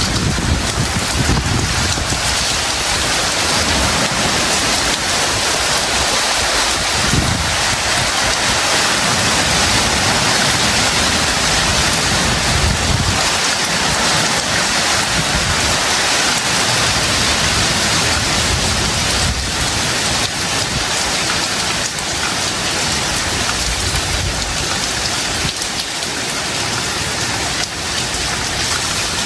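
Heavy tropical rain falling steadily, with a low rumble that swells and fades through it.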